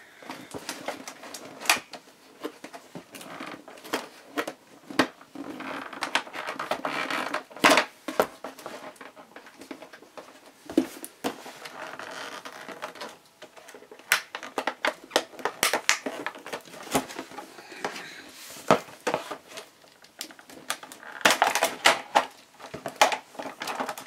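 Plastic toy train-set pieces and their packaging being handled and unpacked: a run of irregular clicks and knocks with spells of rustling between.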